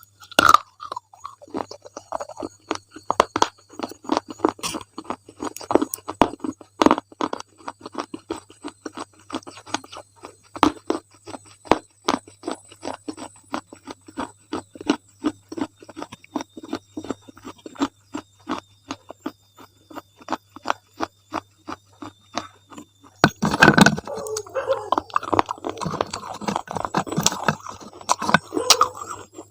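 Close-miked chewing of crunchy ice cream: a run of quick crackling crunches, several a second. About 23 seconds in comes a louder bite, followed by denser, harder crunching.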